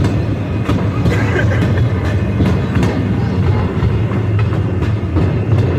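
Railroad train rolling along the track, heard from an open-air car: a steady low rumble with irregular clicks of the wheels over the rails.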